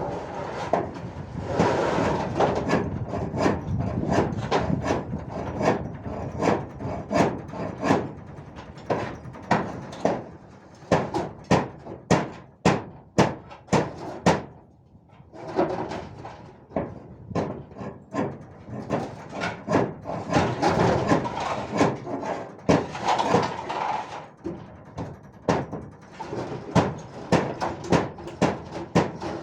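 Repeated irregular knocks and bangs, sometimes several a second, with stretches of denser clattering noise.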